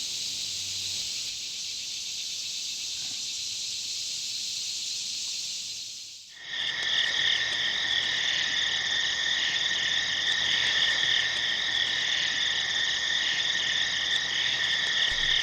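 A steady high hiss of outdoor ambience that cuts off abruptly about six seconds in and gives way to a night chorus of crickets and frogs: a dense, pulsing trill at two high pitches.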